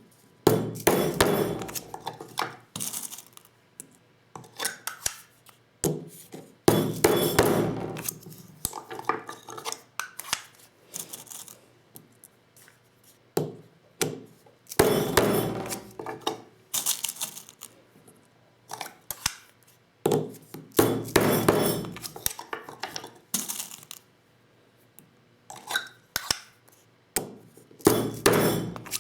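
Clinking and clattering of the metal Lee Loader tools and 12-gauge shotgun shells being handled while reloading. Dense clusters of knocks come in repeated bursts about every six to seven seconds, with single clicks between them.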